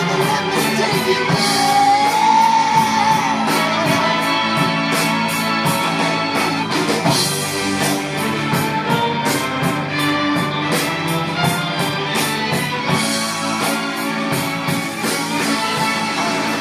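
Rock music with guitar over a steady drum beat, played through a Bose SoundLink portable Bluetooth speaker.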